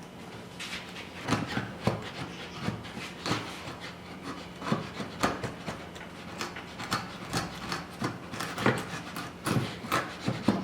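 Short, irregular scraping strokes of a hand-held edge tool paring waste from wood, about one or two a second.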